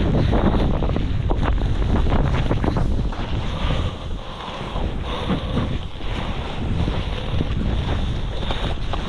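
Wind rushing over an action camera's microphone together with skis hissing through snow on a fast downhill run. The rush swells and eases, dipping briefly about four seconds in.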